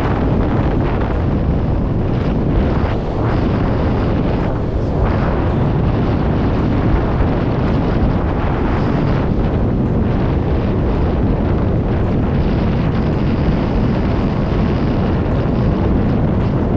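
Steady, loud rush of air blasting over the microphone during a skydive.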